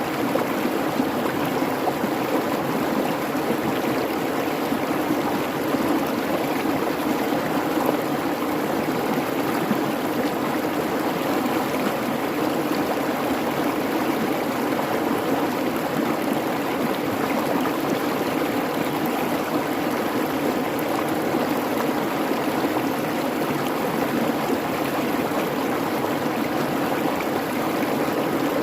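Creek babbling: a steady rush of water over rocks.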